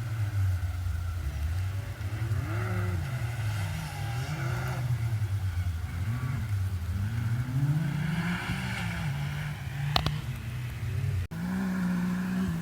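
Side-by-side UTV engine running hard, its pitch rising and falling over and over as the throttle is worked. There is a sharp knock about ten seconds in.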